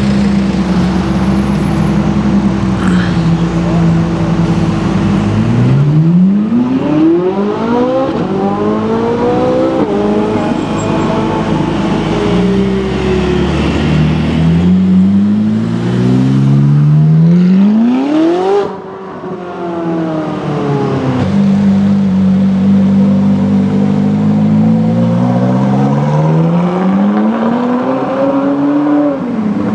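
Ferrari 458 Italia with a Liberty Walk body kit, its 4.5-litre V8 running at low revs and then accelerating hard about three times, the engine note rising in long sweeps and dropping back between pulls.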